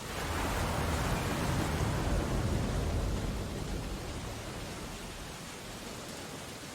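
Steady rain on window glass over the rush of stormy ocean surf. A wave surges in at the start, deep and strongest for the first few seconds, then fades back to the steady wash.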